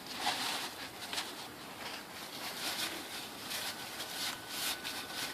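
Soft, intermittent rustling and handling noises, a string of brief scrapes or wipes, with a faint steady high tone in the background during the second half.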